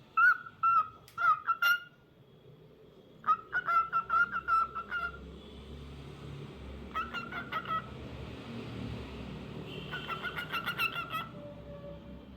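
Cockatiel chirping in four short bouts of quick repeated notes, each bout lasting about one to two seconds.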